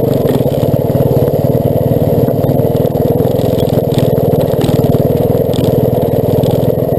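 Off-road motorcycle engine running steadily at low revs with a rapid, even firing beat, neither revving up nor dying away.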